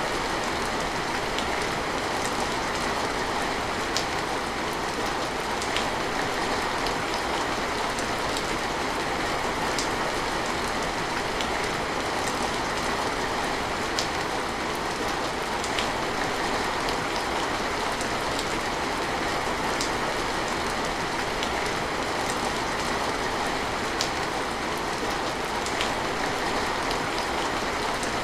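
Steady rain falling, an even hiss with scattered sharper drop ticks every second or so.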